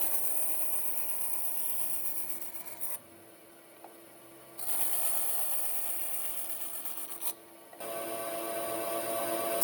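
An abrasive tool scraping steadily on wood, in three stretches that stop abruptly about three seconds in and again near seven seconds.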